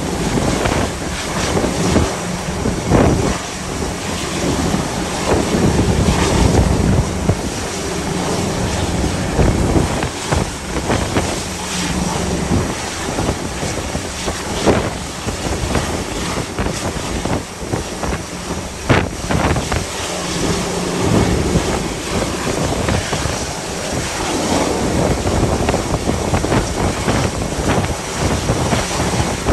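Gale-force wind buffeting the microphone over the rush of a rough sea, loud and gusty throughout, with a few sharp blasts of wind on the mic.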